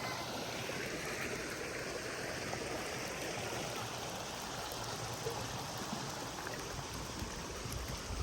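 Steady rush of storm-surge floodwater, with a short low thump right at the end.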